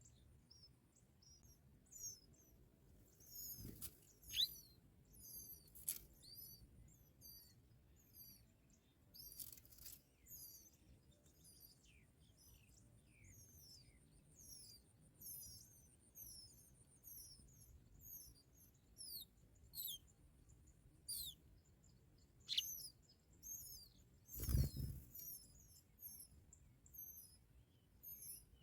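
Faint, rapid high-pitched chirping of bar-winged prinias at the nest, short downward notes repeated throughout. A thin steady high whine runs through the middle, and a few sharp thumps or rustles cut in, the loudest near the end.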